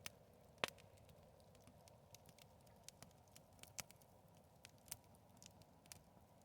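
Bonfire crackling: irregular sharp pops and snaps of burning wood, with one louder pop just over half a second in.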